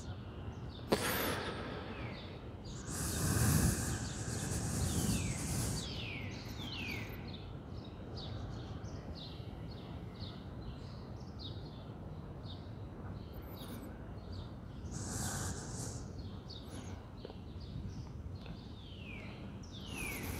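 Birds calling with repeated short, downward-sliding chirps over a steady bed of outdoor background noise, broken by a few brief rushes of noise.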